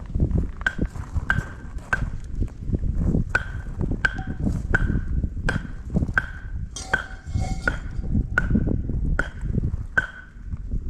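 Repeated sharp metallic strikes, one every half second to second, each ringing briefly at a clear pitch, over wind rumbling on the microphone.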